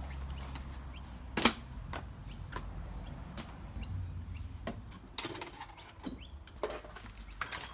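Scattered clicks and knocks of things being handled, the loudest about one and a half seconds in, over a low steady hum.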